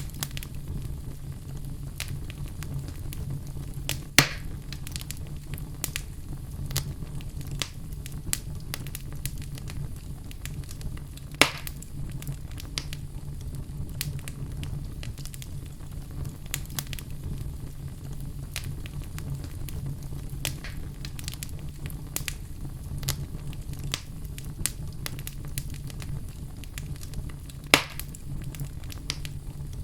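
Fire burning in a fireplace, crackling continuously over a steady low rumble, with three sharper pops about four, eleven and twenty-eight seconds in.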